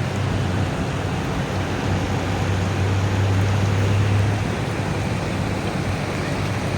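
Traffic on a flooded road: a steady rush of water and road noise under a vehicle engine's low hum, which swells for a couple of seconds in the middle.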